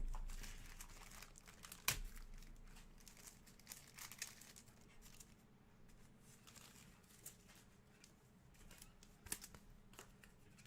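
Faint crinkling and scattered soft clicks of trading cards and their plastic packaging being handled, with a sharper tap right at the start and another about two seconds in.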